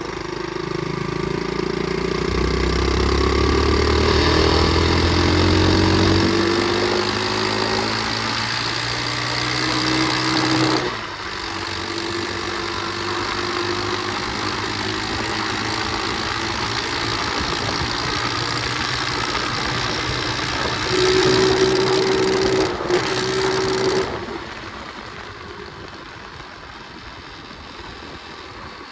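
Pit bike engine under way, rising in pitch over the first several seconds and dropping sharply about eleven seconds in. It then runs steadily, gets louder briefly a little past twenty seconds, and falls back to quieter running for the last few seconds. A broad rushing noise lies under it throughout.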